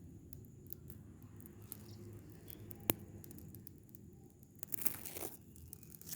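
Rubbish fire burning with scattered crackles, one sharp pop just before the middle, and a brief rustling crunch of dry rubbish near the end.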